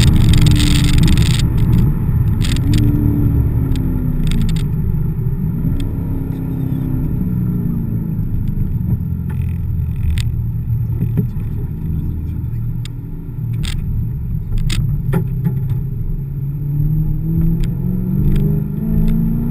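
Chevrolet Corvette C5's V8 engine heard from inside the cabin while lapping a track, its revs falling and rising several times through lifts and gear changes, then climbing steadily under acceleration near the end. Scattered sharp clicks and rattles sound over the engine.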